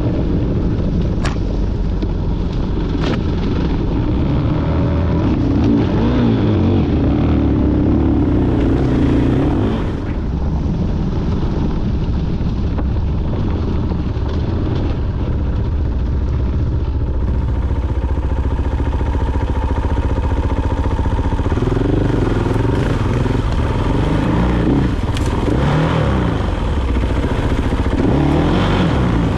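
Dirt bike engine running under load, its pitch rising and falling repeatedly as it is revved, with a few sharp clicks or knocks.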